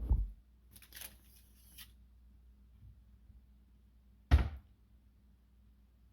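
Kitchen handling sounds: a dull thump, then about a second of rustling, then one sharp knock about four seconds in, the loudest sound, over a faint steady hum.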